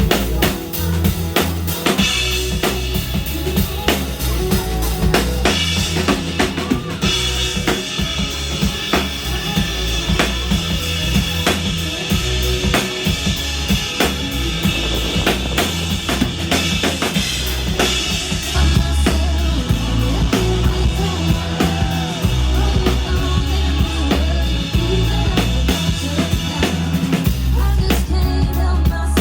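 A live band playing a song, with the drum kit's kick and snare keeping a steady beat over a strong bass line.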